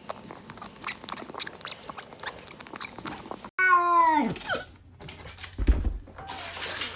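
A cat's single meow that slides down in pitch, about halfway through. Before it comes a run of small clicks and taps, and a brief noisy rustle follows near the end.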